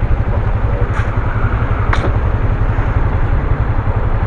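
A 125cc motorcycle running, with a steady low rumble throughout. Two short sharp clicks come about a second apart, one and two seconds in.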